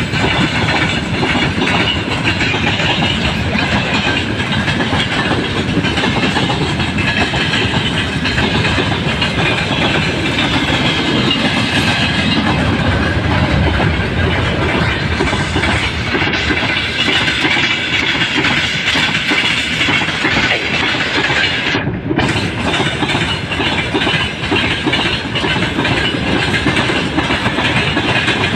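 Freight train hauled by a VL10 electric locomotive rolling past steadily, its wagon wheels clattering over the rails.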